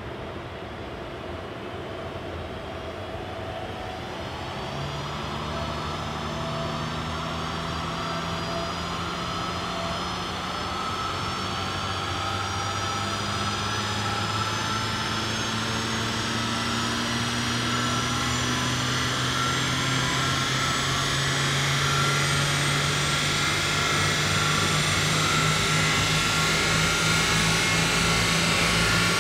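Mercedes-Benz C200 (W205) 2.0-litre turbocharged four-cylinder petrol engine pulling at full load in one gear on a chassis dyno. Its note rises slowly and steadily from just above idle to nearly 5,000 rpm and grows louder, with a rising whine over it. This is a baseline power run on the stock exhaust.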